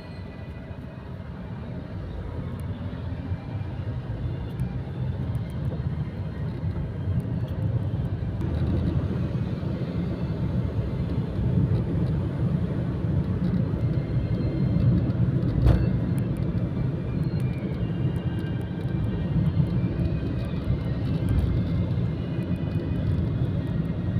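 Gusty wind buffeting the microphone in a low, flickering rumble that builds over the first several seconds and then holds strong. This is the wind of an approaching storm. There is a single sharp click in the middle.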